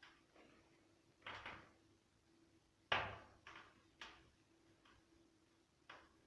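Firewood burning in a fireplace insert's firebox, giving off scattered sharp crackles and pops at irregular intervals, the loudest about three seconds in.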